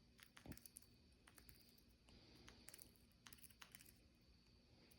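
Faint, scattered small clicks of a budgie cracking seeds in its beak as it eats from a hand, over near silence.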